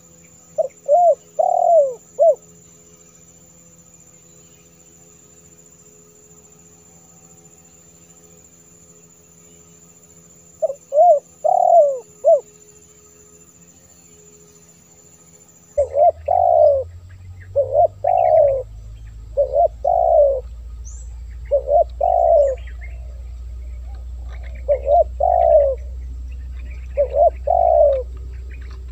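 Spotted dove (tekukur) cooing in short, clipped coo phrases. The first two phrases come about ten seconds apart. About halfway through, the recording changes: a low hum sits behind the calls, and the phrases repeat every couple of seconds.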